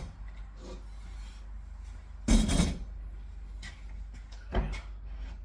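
A few brief knocks and scrapes of kitchen utensils against cookware, the loudest about two and a half seconds in and a smaller one near the end.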